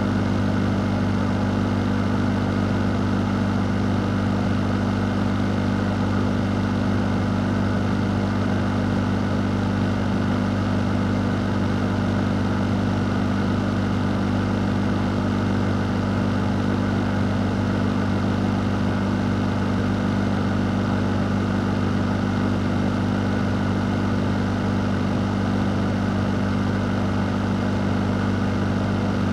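A fan running steadily: a constant low hum with an even rush of air over it.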